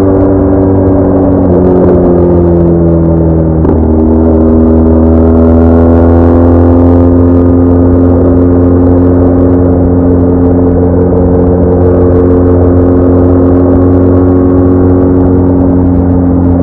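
BMW R1200R's flat-twin engine running under way with a steady pitched drone. Its pitch drops suddenly a little under four seconds in, as at a gear change, then rises gradually for a few seconds and holds steady, over a constant low rumble.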